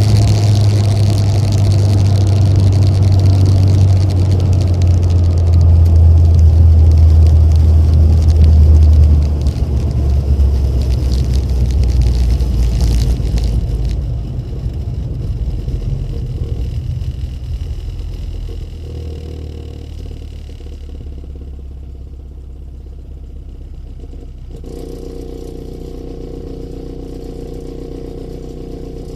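Rover Mini's A-series four-cylinder engine through an aftermarket sports muffler, running loud and low under load at first. It eases off after about nine seconds, slows down, and settles into a steady idle for the last third.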